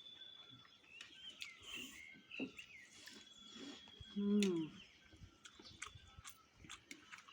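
Small birds chirping and twittering outdoors, with scattered short clicks of eating and one brief low hum about four seconds in, the loudest sound.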